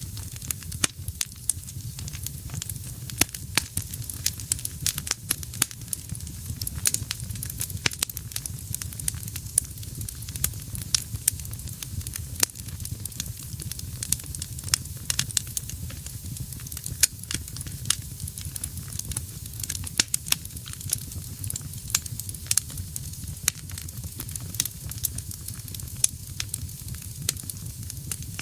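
Wood fire burning in a fireplace: a steady low rumble and hiss of flames with many sharp, irregular crackles and pops from the burning logs.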